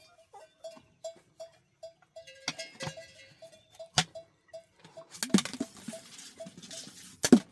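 A short bell-like ping repeating evenly about three times a second, with a few sharp knocks. From about five seconds in, a steady hiss like rain joins.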